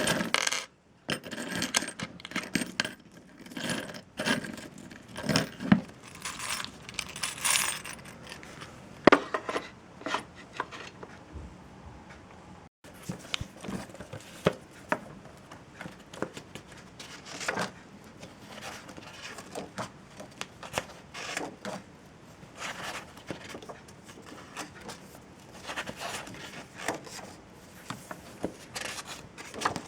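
Small hard objects being handled up close: irregular clinks, taps and light scrapes, with a sudden break about halfway through.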